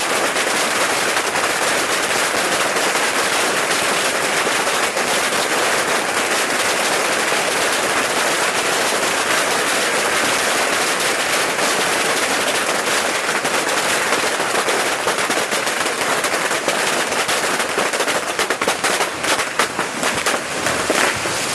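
Beehive fireworks rack firing at close range: a dense, unbroken barrage of bottle rockets and firecrackers crackling and banging, very loud. About 18 seconds in the barrage thins into separate, irregular bangs.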